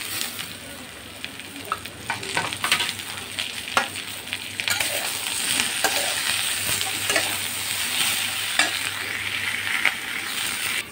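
Sliced ivy gourd (kundru) with onions and potatoes sizzling in hot oil in a frying pan while a metal spatula scrapes and knocks against the pan as it is stirred. The sizzle gets steadier and louder about halfway through.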